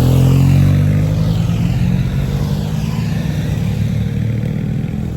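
Motorcycle engine running steadily under load, with a hiss of wind over it.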